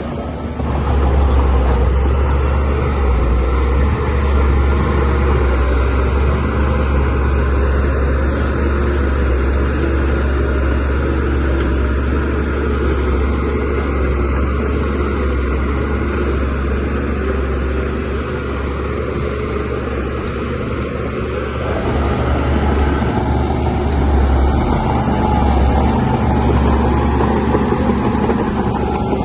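Shantui DH17C3Pro bulldozer's diesel engine running under load with a steady deep drone. It gets louder about a second in, eases off for a few seconds past the middle, then picks up again.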